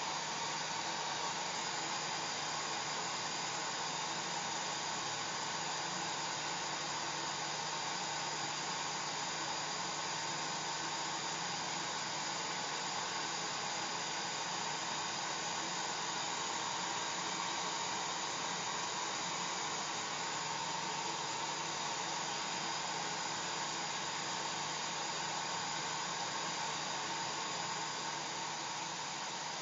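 Hair dryer running steadily: an even rushing blow of air and motor with a faint steady hum, unchanging.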